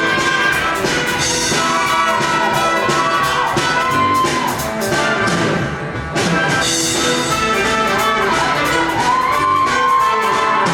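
Show choir's live band playing an instrumental passage, with brass (trumpets and trombones) carrying an arching melody over a steady drum beat.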